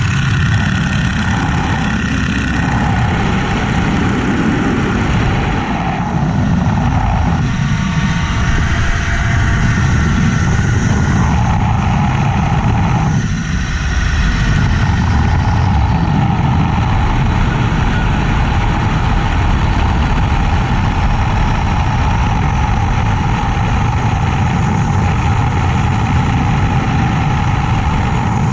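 Boeing-Stearman Model 75 biplane's radial engine and propeller running loud and steady in flight, with a brief dip in level about thirteen seconds in.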